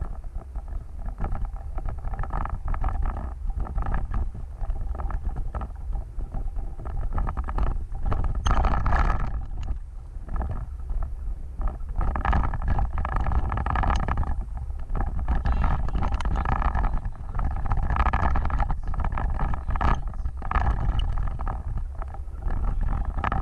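Off-road vehicle driving over rough ground, a steady low rumble with wind buffeting the microphone.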